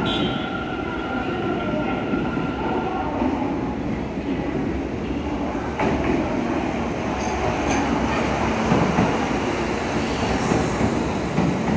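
Electric trains in an underground station. A steady whine stops about three seconds in, then the rumble of a Kintetsu limited express running in on the near track grows louder from about six seconds in, with a few sharp clicks.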